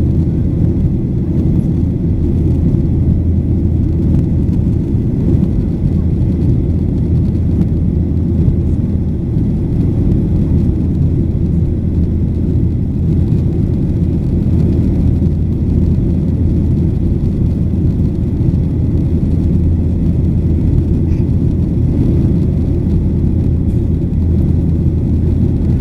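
Boeing 737-800 cabin noise heard from a window seat: the CFM56 engines and rushing air make a steady, loud low rumble, typical of the climb after takeoff.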